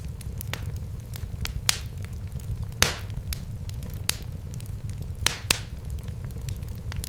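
Fireplace fire crackling: irregular sharp pops and snaps over a steady low rumble, the loudest pop about three seconds in.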